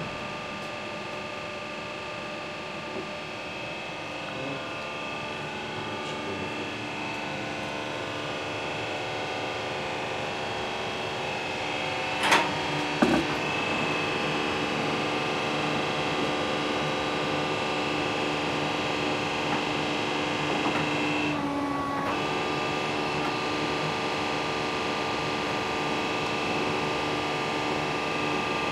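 Böhringer NG200 CNC lathe running, a steady machine hum with several constant tones that slowly grows louder. Two sharp knocks come about twelve and thirteen seconds in, and the tones shift briefly a few seconds before the end.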